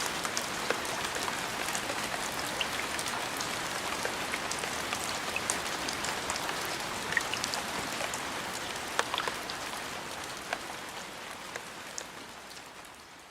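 Steady rain falling, with scattered individual drops ticking sharply through the hiss. It fades out over the last few seconds.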